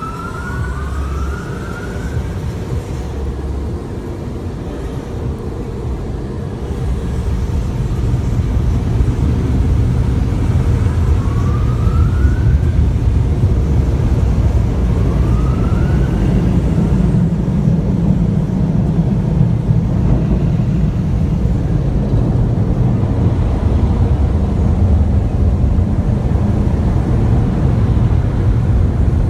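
Car wash running with a loud, steady rumble and rushing noise that grows louder about eight seconds in. A few short rising squeaks come in the first two seconds and again around eleven and fifteen seconds in.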